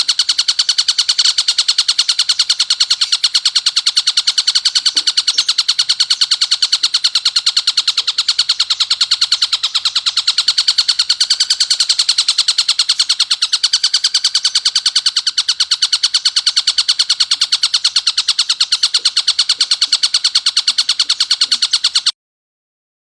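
Tengkek buto kingfisher calling in a long, harsh, dense chatter of very rapid repeated notes, with no gaps. It cuts off suddenly near the end.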